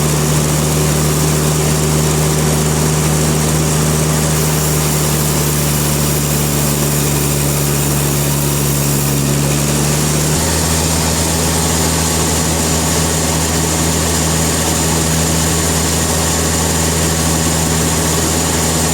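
Sawmill machinery running steadily with a deep, even hum over a wash of mechanical noise. Its tone changes about ten seconds in.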